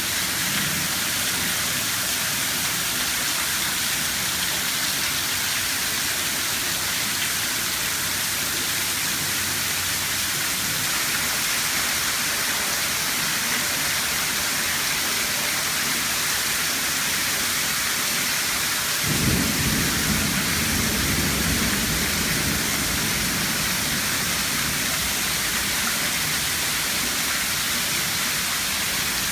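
Steady rain falling, with a low roll of thunder that starts suddenly about two-thirds of the way through and rumbles on for several seconds.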